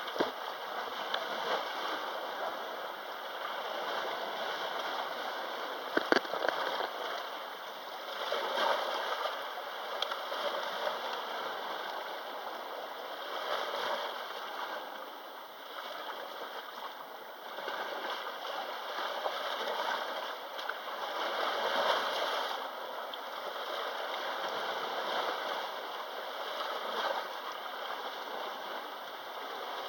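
Sea waves washing onto the shore, the wash swelling and easing every few seconds. Two sharp clicks, one at the very start and a louder one about six seconds in.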